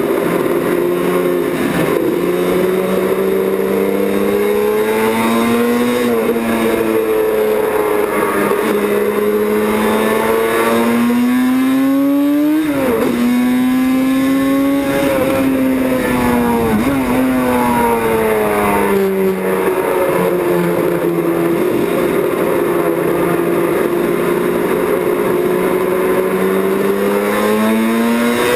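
1978 Yamaha YZR750 OW31 two-stroke four-cylinder racing engine running on track. Its note climbs under acceleration and falls away again several times, with sudden drops in pitch about 13 and 17 seconds in, like gear changes.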